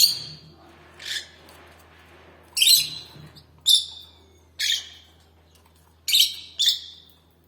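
Domestic canary giving a series of short, high chirps, about one every second, with short pauses between them.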